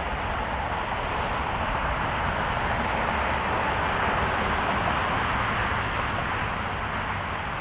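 Jet airliner engine noise, a steady rushing sound that swells slightly midway, with gusty wind rumbling on the microphone.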